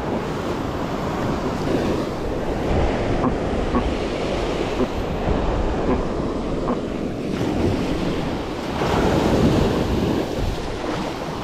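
Ocean surf washing onto the beach, with wind rumbling on the microphone; the waves swell loudest about nine seconds in.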